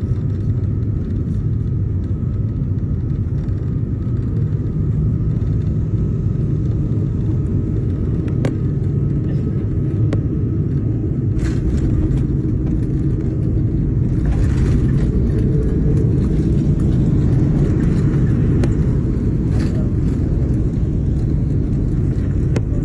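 Jet airliner landing: a steady low rumble with a thin whine. About halfway through, the whine stops and a higher rushing hiss sets in.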